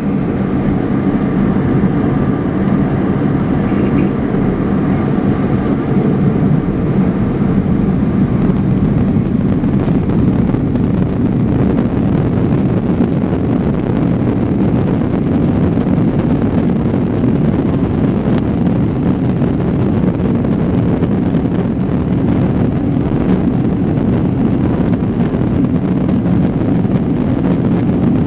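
Airbus A300B4-601 twin turbofan engines at takeoff power, heard inside the cabin as a loud, steady roar. A fainter whine above it fades out about eight seconds in.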